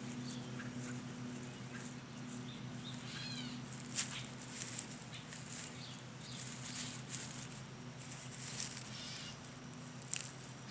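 Irregular rustling and scraping of garden soil being scooped and pressed around potato plants by hand, with a couple of sharper clicks. A short chirp comes about three seconds in, over a faint steady low hum.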